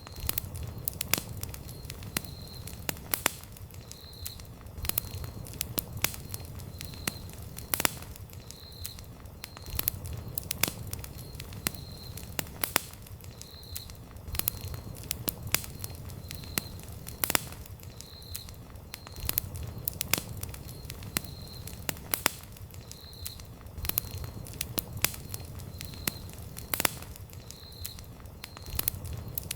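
Campfire burning, with irregular sharp crackles and pops from the burning wood over a low steady rumble of flame. A faint high chirp repeats about once a second throughout.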